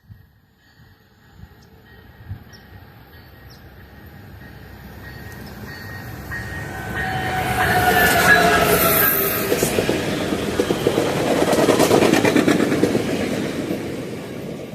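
Passenger train approaching and passing, its rumble building to a loud rush with rapid wheel clicks over the rails. A few steady tones slide gently down in pitch as it goes by.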